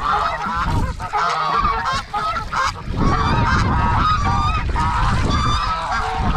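A flock of domestic geese honking loudly, many calls overlapping without pause, over a low rumble. They are in an uproar, raising the alarm about something.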